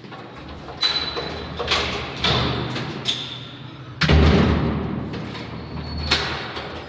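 Wooden cabinet doors and drawers being opened and shut: a string of knocks and thuds with sliding in between, the loudest about four seconds in.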